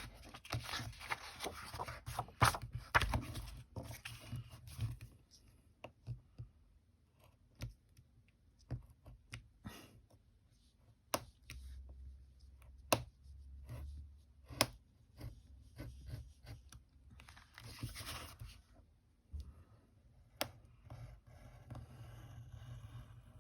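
Paper being handled while a cover is glued and worked along its edge: rustling and rubbing of paper, with scattered light taps and clicks. The rustling is heaviest for the first few seconds and returns in short spells later on.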